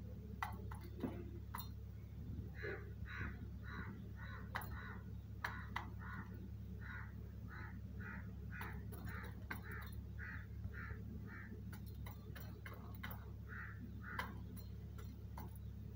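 A bird calling in a long series of short, evenly spaced notes, about two a second, starting a few seconds in and stopping near the end, over scattered sharp clicks and a steady low hum.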